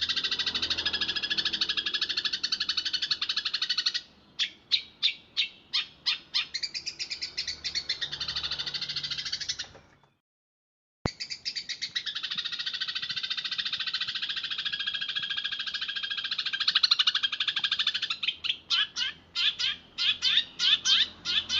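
Eurasian tree sparrow chattering in a fast, dense rolling trill of high chirps. The trill breaks twice into a run of separate sharp chirps. Partway through, the sound cuts out for about a second and comes back with a click.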